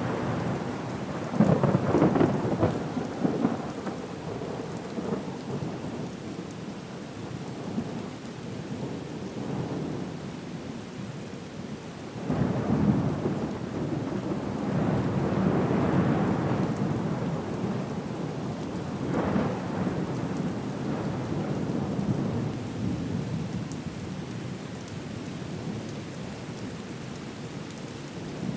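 Storm ambience: steady rain with rolling rumbles of thunder. The rumbles swell up about a second in, again for several seconds from about twelve seconds in, and once more near twenty seconds.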